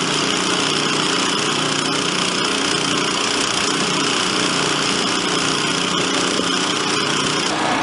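Portable pumps with small engines running steadily, pumping water out of the work area.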